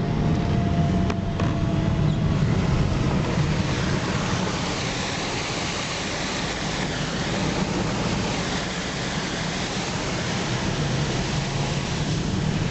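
Steady rushing of wind and heavy rain, with a low rumble of wind buffeting the microphone.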